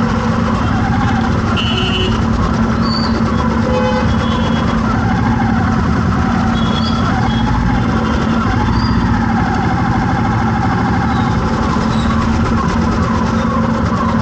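An engine running steadily close by, holding one constant hum, amid the noise of surrounding road traffic.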